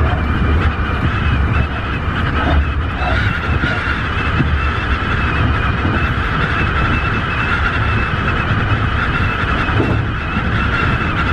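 Tobu 50090 series electric train running at speed: a steady low rumble of wheels on track with a continuous high whine over it.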